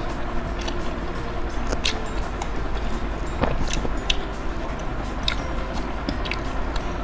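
Close-miked chewing of a bite of mozzarella cheese corn dog, with scattered short wet mouth clicks over a steady background hiss.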